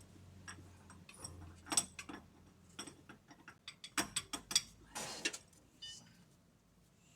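Metal tools and parts clicking and clinking irregularly during steering-rack repair work, with a few sharper knocks through the middle and a short scrape, then quieter toward the end.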